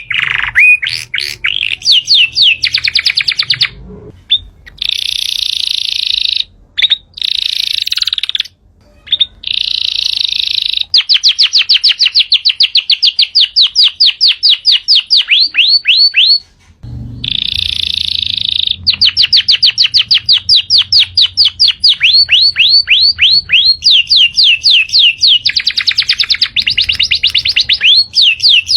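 Yorkshire canary singing a long, loud song: fast runs of evenly repeated high notes alternating with dense rolling trills, broken by a few brief pauses.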